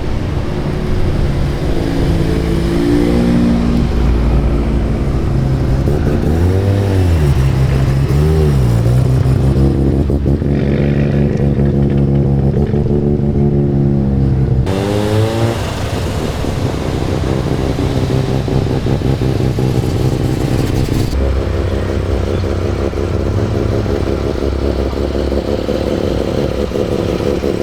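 Car engines idling with short throttle blips: a rev rises and falls twice, and another rev climbs a little later. The engine sound changes abruptly twice as a different car takes over.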